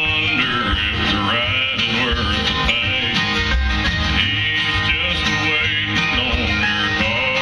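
Live bluegrass band playing, with acoustic guitar and banjo picking and a fiddle.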